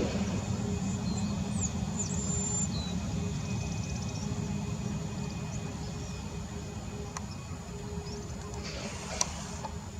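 Boeing 737 MAX 8 jet engines heard as a low rumble with a faint steady whine, slowly fading. Birds chirp briefly about two seconds in, and there is a sharp click near the end.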